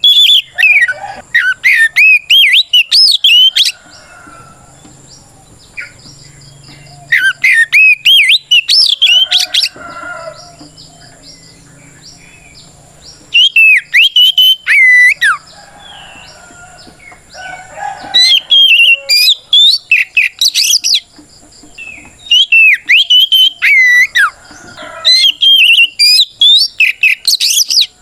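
Oriental magpie-robin (kacer) singing a loud challenge song that calls out rivals: about five bursts of rapid, sweeping whistles and chirps, with pauses of a few seconds between them.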